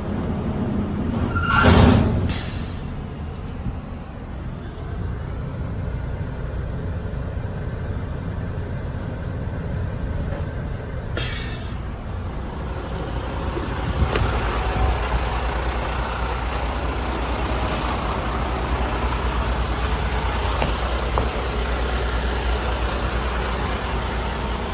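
MAN TGS 33.400 tipper truck's six-cylinder diesel engine running, with two short hisses of released air from the air brakes, about two seconds in and again about eleven seconds in. From about fourteen seconds in the engine gets louder and stays so.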